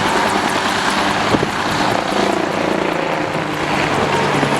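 A large transport helicopter flying a display pass, its rotor and turbine engines making a loud, steady noise.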